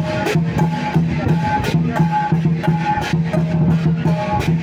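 Lion dance percussion: a drum beating a steady rhythm of about three strokes a second, with cymbal clashes and some held tones over it.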